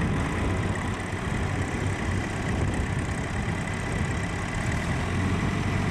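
Tractor engine running steadily under load, pulling on a rope to drag a tractor stuck in sand.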